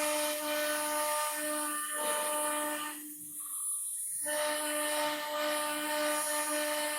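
Spindle of a Blue Elephant 1325 ATC CNC router running with a steady high-pitched whine over a hiss. The whine cuts out briefly about three seconds in and comes back at the same pitch a second later.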